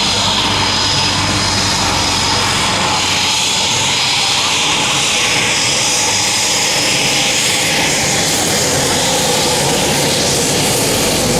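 Leonardo AW249 Fenice attack helicopter in flight: loud, steady turbine and rotor noise with a thin high whine.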